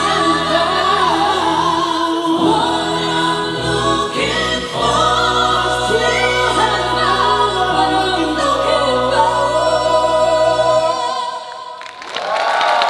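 Several voices singing together in harmony over long held low backing notes. The song ends about eleven seconds in, and audience applause starts near the end.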